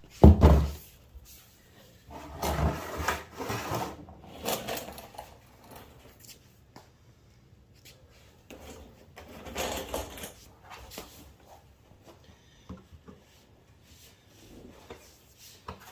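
Irregular clunks, knocks and scraping of tools and equipment being handled in a garage, with a sharp thump right at the start and quieter knocks toward the end.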